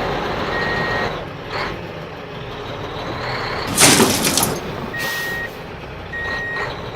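Reversing beeper on a radio-controlled toy truck sounding a few half-second beeps over a steady mechanical noise. About four seconds in there is a loud, brief hiss.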